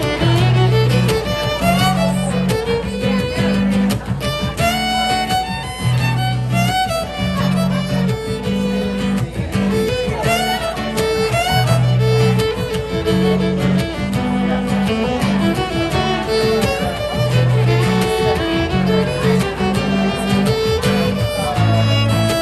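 Live band playing an instrumental break: a melodic lead line weaving over a steady, repeating bass pattern.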